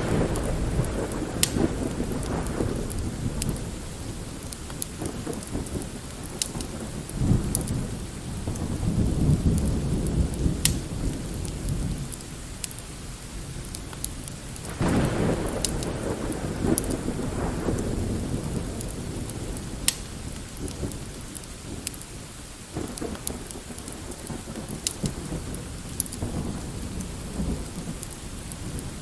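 Rolling thunder over steady light rain: several low rumbles come and go, a long one swelling about a third of the way through and a sharper peal about halfway, with scattered sharp ticks throughout.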